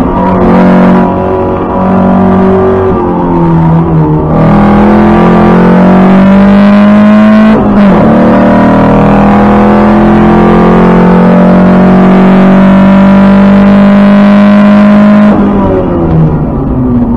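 Lancia Fulvia's narrow-angle V4 engine heard onboard under hard acceleration. After a few seconds of varying revs through bends, the pitch climbs steadily, breaks and drops once at a gear change about eight seconds in, then climbs again. It falls away when the throttle is lifted near the end.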